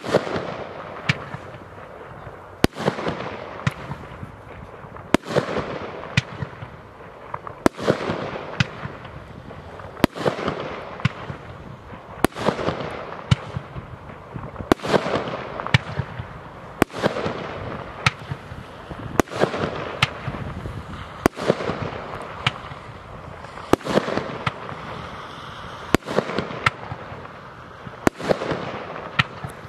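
Vulcan 'Speed of Sound' 25-shot firework cake firing shot after shot. A sharp report comes roughly every two and a half seconds, each followed by a hissing, crackling tail that fades, with smaller pops in between.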